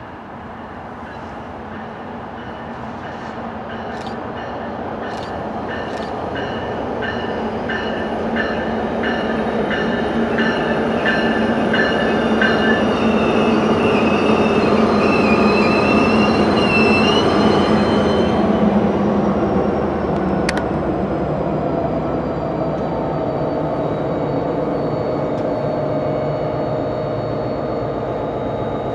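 NJ Transit diesel-hauled commuter train running on the rails, growing steadily louder for about fifteen seconds and then easing slightly. High steel wheel squeal sounds over the rumble, bending in pitch near the middle, and there are three sharp clicks about four to six seconds in.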